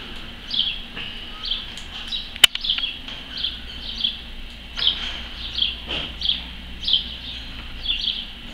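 A small bird chirping over and over, a short high call every half second or so. One sharp click about two and a half seconds in.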